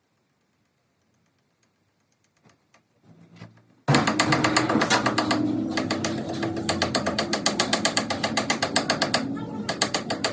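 A workshop machine starts abruptly about four seconds in and runs with a fast, even clatter over a steady hum, after near silence with a few faint clicks.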